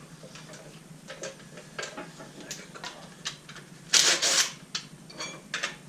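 Hand tools and loose metal parts clicking and knocking at irregular intervals as bolts are worked off an engine, with a louder metallic clatter about four seconds in.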